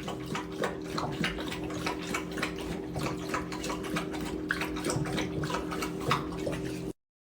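Water splashing in quick, irregular small strokes over a steady electrical hum, cutting off abruptly near the end.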